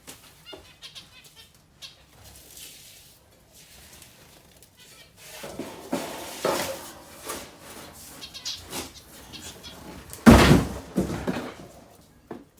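A bird-cage tray being worked loose, with clattering and scraping from about halfway through and a loud knock near the end as it comes free. Zebra finches call in the background.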